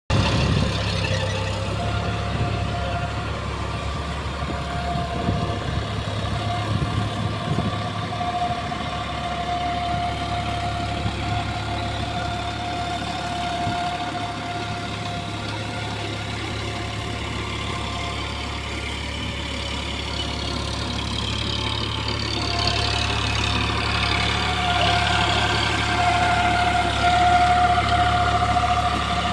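Eicher 551 tractor's diesel engine running steadily, with a steady whine held at one pitch. From about 22 seconds in it gets a little louder and a set of higher tones slides downward.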